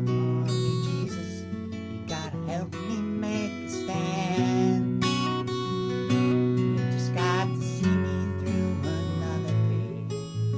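Acoustic guitar strumming and picking chords in an instrumental passage of a song.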